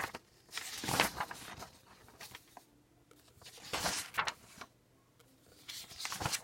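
Paper rustling three times, pages of a printed book being handled and turned during proofreading; each rustle lasts under a second.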